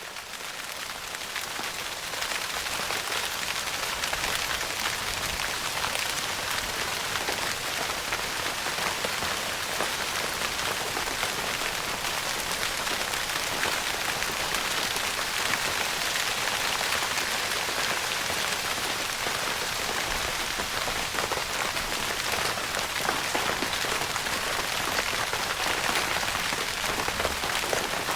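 Steady rain pattering on a tent's fabric roof, a dense hiss of many small drop impacts. It fades in over the first couple of seconds, then holds even.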